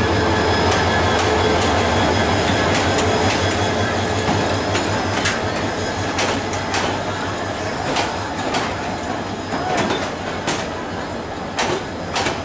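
Diesel-hauled passenger train rolling slowly into a station. The locomotive's low engine hum is strongest at first and fades as the coaches pass, their wheels clicking irregularly over the rail joints.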